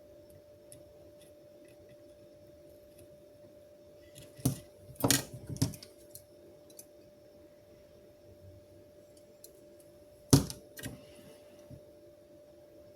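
Small hard objects clicking and clattering as they are handled, in two short bursts, the loudest a little after ten seconds in, over a faint steady hum.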